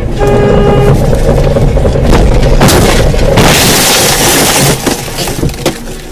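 A car crash: a short steady pitched tone at the start, then about two and a half seconds in a loud crash of breaking and crunching noise lasting a couple of seconds, trailing off into scattered clatters of debris.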